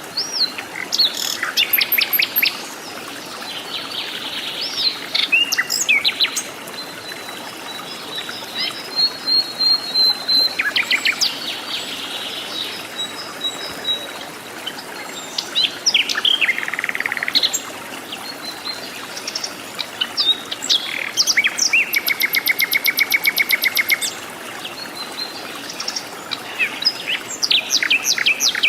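Several different forest birds calling and singing in turn, with varied chirps and whistled phrases over a steady background hiss. Past the middle, one bird gives a fast trill of repeated notes lasting about three seconds.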